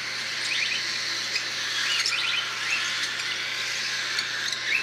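Young cockatiels chirping: a steady high chatter with a few short, clear chirps standing out about two seconds in and near the end.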